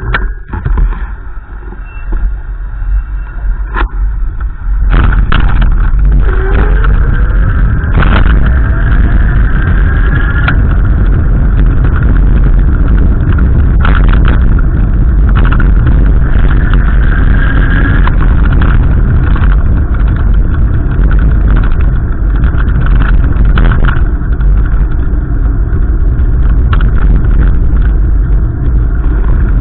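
Strong gusty wind buffeting the microphone: a loud, ragged low rumble that rises sharply about five seconds in and keeps going. Faint rising whines show through it a few times.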